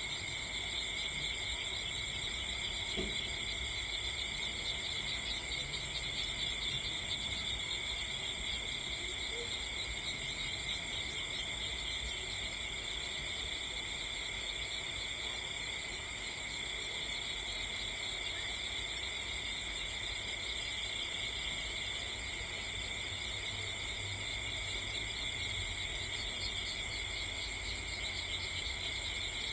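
Steady chorus of crickets chirping without a break, with a low rumble underneath.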